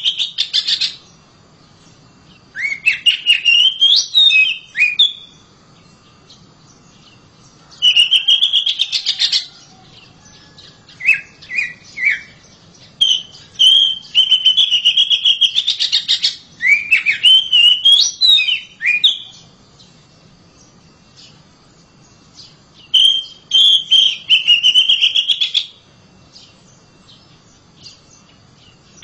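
Oriental magpie-robin (kacer) singing loudly. It gives about seven phrases of one to three seconds each, made of fast repeated and up-slurred whistled notes, with short pauses between them.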